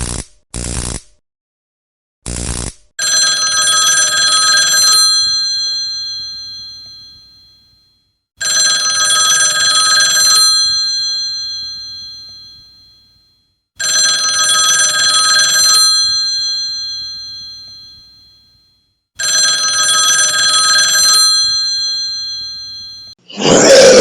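A few short, sharp blips, then a telephone bell ringing four times. Each ring lasts about two seconds and fades out with a ringing tail, and the rings come about five seconds apart.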